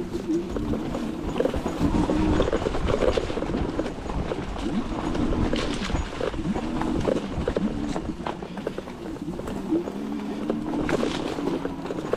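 E-bike riding over rough, grassy ground: a motor hum that rises and falls in pitch, with frequent bumps and rattles from the bike and a low rumble of wind on the microphone.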